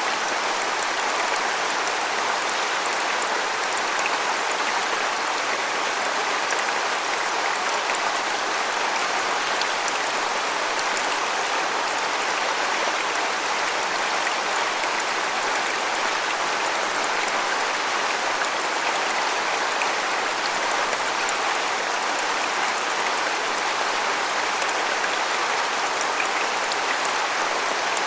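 Waterfall: water falling and splashing in a steady, even rush, with small droplet splashes in the high end.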